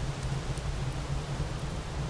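Steady fireplace-and-nature ambience: an even rain-like hiss over a low rumble, with a few faint, sparse crackles.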